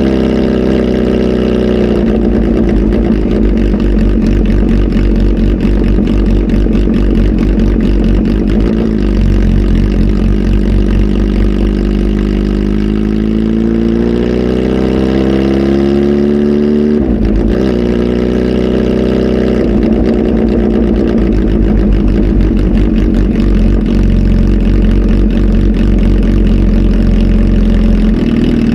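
Kawasaki Z H2 SE's supercharged inline-four running loud through an aftermarket full exhaust. The engine holds steady, rises slowly in pitch and falls back through the middle, then dips sharply and settles into a steady run again.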